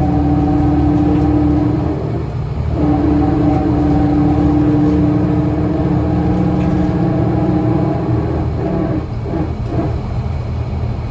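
Scania L94UA articulated city bus running under way: a steady engine and drivetrain drone with a strong humming tone over a low rumble. The tone breaks off briefly about two seconds in, then comes back, fades and breaks up near the end before returning.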